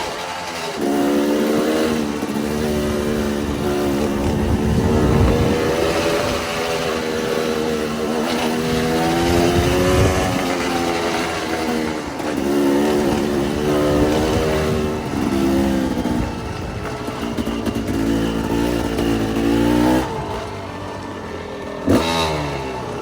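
Dirt bike engine being ridden, its pitch rising and falling back again and again as the throttle opens and closes, over a steady rushing noise. There is a short sharp knock near the end.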